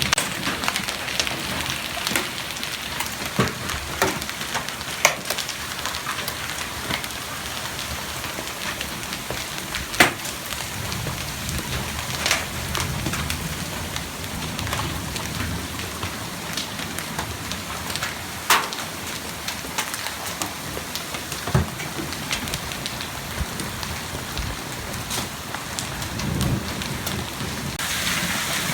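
Hailstorm: a steady hiss of hail and rain falling, broken every second or few by sharp cracks of single hailstones hitting hard surfaces, the loudest about ten seconds in.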